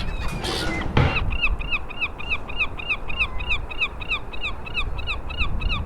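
A gull calling in a fast, even run of short, falling notes, about five a second, over a low steady rumble. About a second in, a dull thump comes just before the calls begin.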